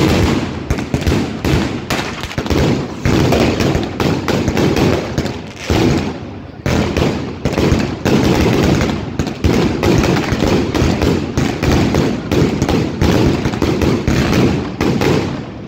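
Aerial fireworks going off in quick succession: loud bursts and booms one after another with a dense crackle between them, easing briefly about six seconds in.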